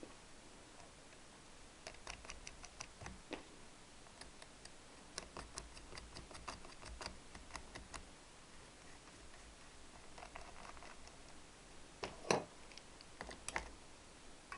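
Small nuts being run onto studs and snugged with a hand tool: runs of light metallic clicks and ticks, with one louder knock about twelve seconds in.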